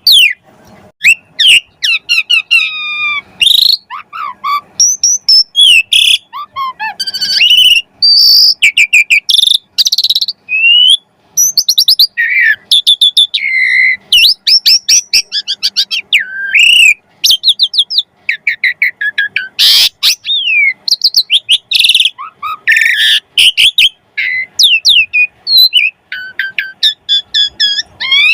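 Asian pied starling (jalak suren) singing a long, busy song. It mixes sweeping whistles, fast trilled runs and short harsh notes with hardly a pause, a 'gacor' song full of filler phrases.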